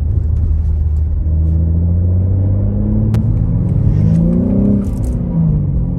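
2021 BMW M3's S58 twin-turbo inline-six accelerating, its pitch climbing steadily for about three seconds, then the revs dropping near the end before settling lower. A single sharp click about halfway through.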